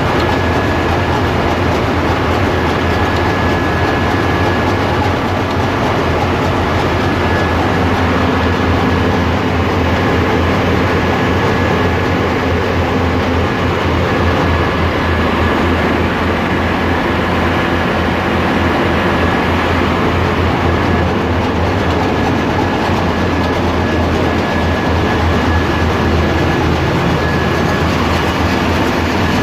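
Ship's engine room machinery running: a loud, steady din with a deep rumble and a thin high whine.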